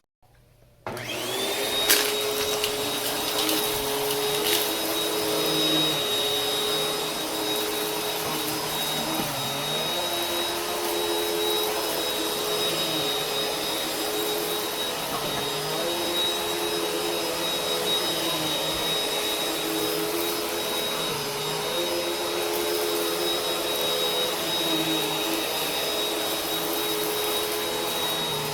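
Vacuum cleaner switched on about a second in, its motor spinning up quickly, then running steadily with a high whine over the rushing of air. The lower hum wavers every few seconds.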